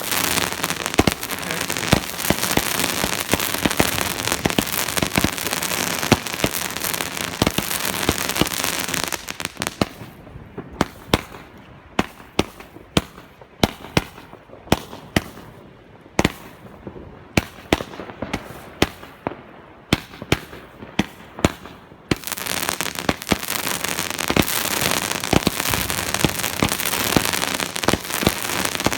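Fireworks and firecrackers: dense crackling with frequent sharp bangs. For a stretch in the middle it thins out to separate bangs, then dense crackling picks up again for the last several seconds.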